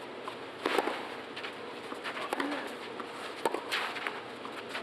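Tennis rally on a clay court: sharp racquet strikes on the ball a second or more apart, with players' footsteps over a steady background hiss.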